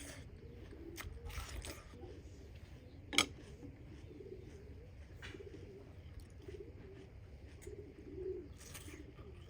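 Doves cooing over and over in low, soft calls, with one sharp click about three seconds in.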